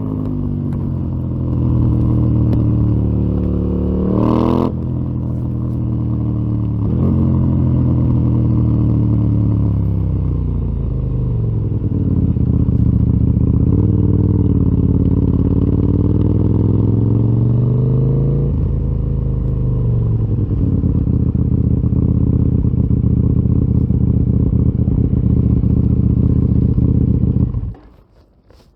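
KTM 890 Duke R's parallel-twin engine through a full Akrapovic exhaust system. Its pitch falls and rises several times through gear changes, then it holds a steady low idle for several seconds before cutting off abruptly near the end.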